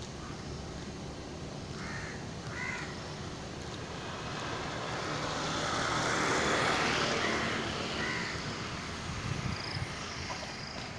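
A vehicle passes by, its noise swelling to a peak midway and then fading. Crows caw a few times, around two seconds in and again after the vehicle has gone by.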